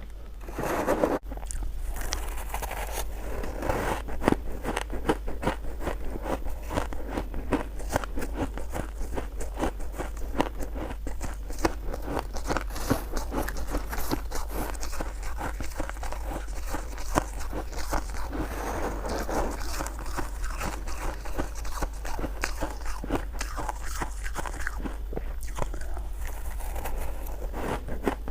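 Close-miked crunching and chewing of shaved ice, a dense run of rapid crisp crackles and bites with no pause. A steady low hum lies underneath.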